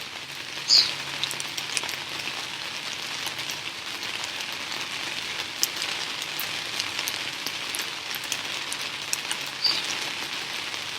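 Steady rain falling, a continuous hiss with scattered individual drops ticking. A brief louder hiss about a second in and again near the end.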